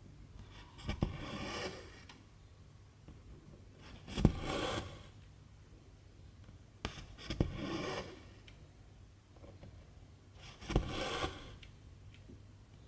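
Cross-stitch needle pushed through 11-count fabric and silk thread drawn through after it. Four stitches about three seconds apart, each a sharp click followed by a rasp of about a second.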